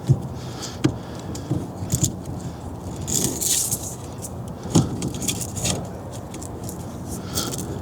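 Hand work on small metal parts: a series of sharp clicks and knocks, with a longer jangling rattle about three seconds in.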